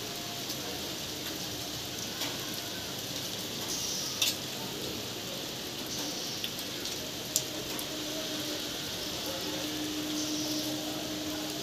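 Steady rain falling, an even hiss, with a few sharp ticks, the loudest about four seconds in and again about seven seconds in.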